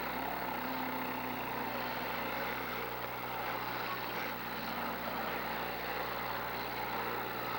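Engines of several demolition derby cars running in a steady, dense din.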